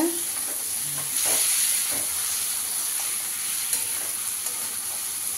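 Masala and fried chana dal adauri pieces sizzling in oil in a kadhai while a metal spatula stirs and scrapes through them, a steady frying hiss with a few light scrapes.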